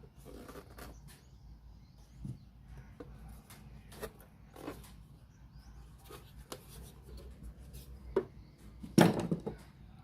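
Scattered small clicks and knocks of tools and parts being handled on a workbench, with the loudest knocks about nine seconds in, over a faint steady low hum.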